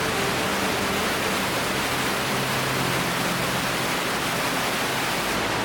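Steady rush of flowing water, an even hiss with no breaks, with faint steady low tones underneath.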